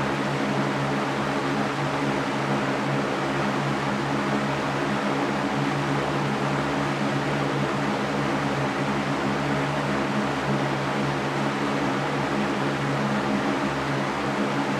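Electric fan running steadily: a constant rush of air over a low motor hum.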